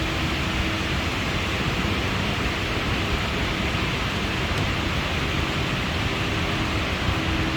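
Electric air blower running steadily: an even rushing of air with a faint motor hum.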